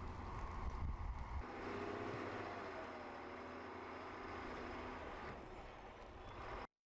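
A vehicle running: a low rumble that eases off about a second and a half in, then steady noise with faint tones, cut off abruptly near the end.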